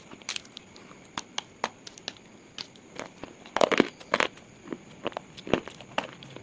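Brittle slate pieces crunching and snapping in a string of irregular sharp cracks, with the loudest cluster a little past halfway.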